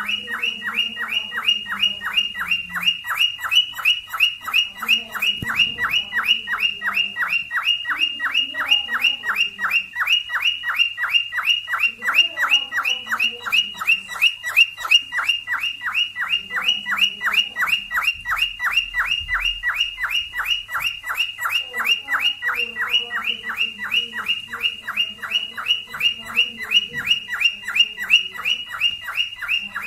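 Cockatiel calling in a fast, even series of short, high chirps, each dropping slightly in pitch, about four a second without a break.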